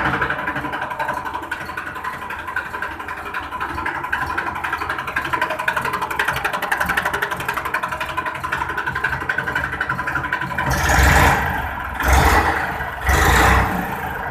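Massey Ferguson 241 tractor's three-cylinder diesel engine idling steadily just after being started. It is revved up briefly three times near the end.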